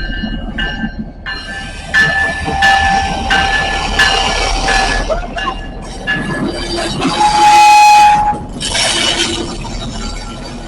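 Locomotive horn blowing in several blasts. The longest and loudest comes about seven seconds in and a shorter one follows, over the low rumble of the moving train.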